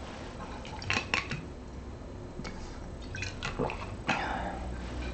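A person drinking water, with a few soft gulps and small clicks from the cup or bottle.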